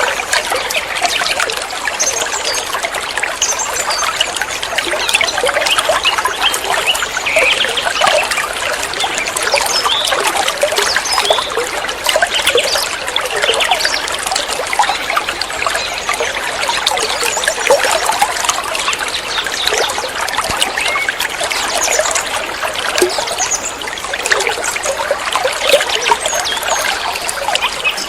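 Water trickling and splashing steadily, with many small close splashes.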